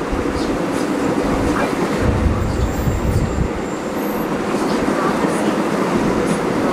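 Carriage of the North Borneo Railway steam train running steadily along the track: the steady noise of wheels and carriage on the rails, with a few faint ticks.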